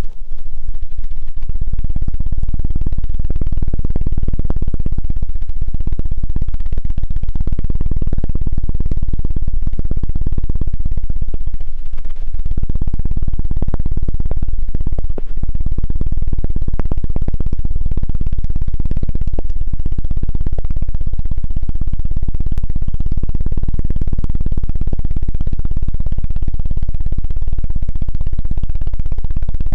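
ASMR 'helicopter' ear-cleaning sound: a loud, continuous low thudding of very rapid pulses from something worked fast against the microphone's ear, briefly easing twice around the middle.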